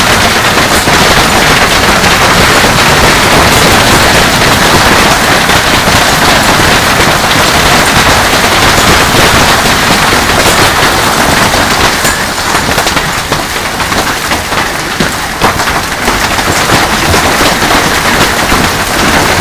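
Hail falling hard, a dense rapid clatter of hailstones striking surfaces along with a rushing noise, easing slightly after about twelve seconds.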